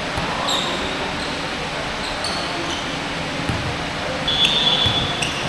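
Basketball game in play: the ball bouncing on the court against a steady background of voices and court noise, with a brief high squeak about four seconds in.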